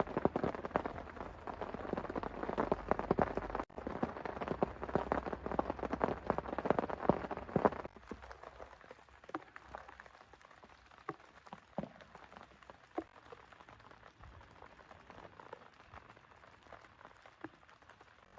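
Heavy rain falling, a dense patter of drop impacts over a steady hiss; about eight seconds in it drops abruptly to a much quieter scatter of single drips.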